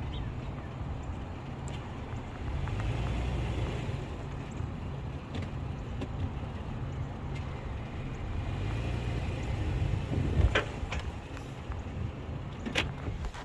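Car rolling slowly with a steady low rumble, broken by a sharp pop about ten seconds in and another click near the end: the popping noise the car makes when it runs over a curb.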